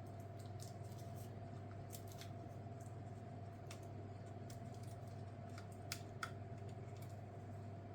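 Light clicks and taps from hand tools and small parts being handled during laptop disassembly, scattered throughout, with two sharper clicks about six seconds in, over a steady background hum.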